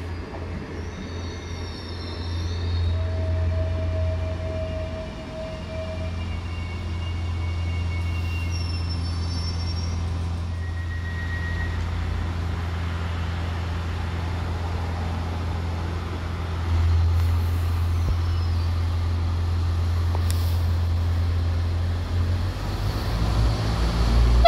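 ODEG diesel multiple unit pulling into the platform: a steady low engine rumble, with thin brake or wheel squeals now and then in the first half, growing louder near the end as the train comes alongside.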